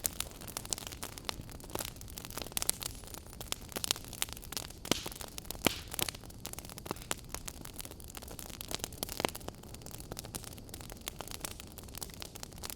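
Wood fire burning in a fireplace, crackling with frequent sharp, irregular pops over a low steady rush.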